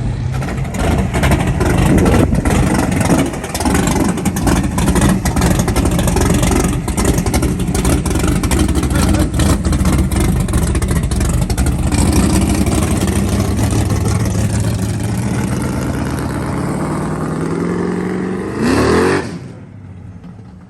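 A car engine revving hard at high revs for a long stretch, with a rushing noise over it. The pitch climbs steeply near the end, then the engine cuts off suddenly.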